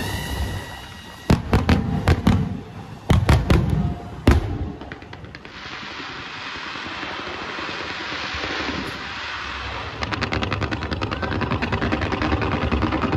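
Aerial fireworks: about seven loud shell bursts in the first four and a half seconds, then a steady crackling hiss from the shells' glitter. From about ten seconds in comes a fast run of crackles, many a second.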